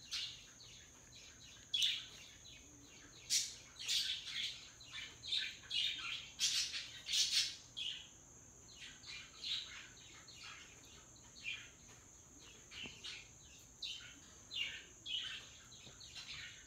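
Yellow-naped Amazon parrot giving many short chirps and squeaks in irregular runs, loudest a few seconds in.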